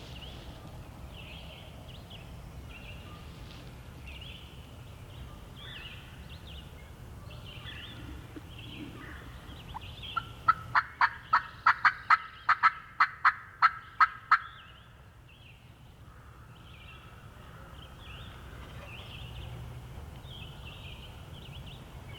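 A loud run of about fifteen sharp turkey yelps, three or four a second, lasting about four seconds from some ten seconds in. Songbirds chirp faintly throughout.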